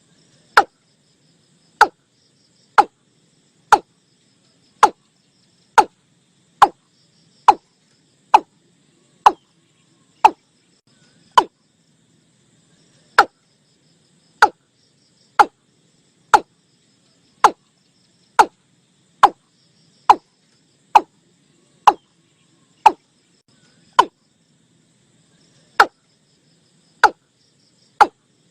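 Watercock calls: a long series of short, loud, clipped notes about once a second, each dropping quickly in pitch. Faint insect chirring runs underneath.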